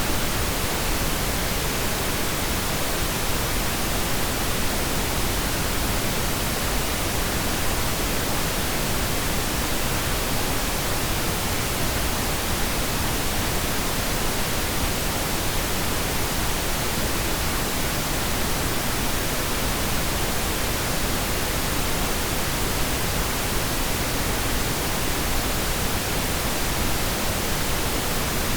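Steady pink noise: an even, unchanging hiss with no separate sounds in it.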